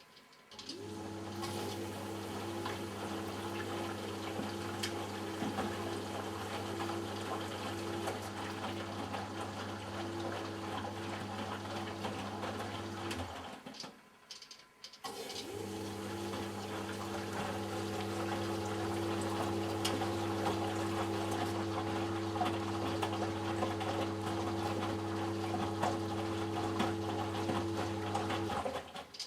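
Eudora Sparmeister 702 Classic washing machine in its prewash, the motor turning the drum with a steady hum and water and laundry sloshing inside. It runs for about 13 seconds, stops for a second or two, runs again, and stops near the end: the drum's turn-pause-reverse wash rhythm.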